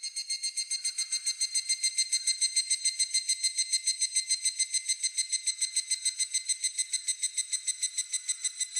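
Higurashi (evening cicada) singing its ringing 'kana-kana-kana' call: a steady, rapid train of about nine pulses a second.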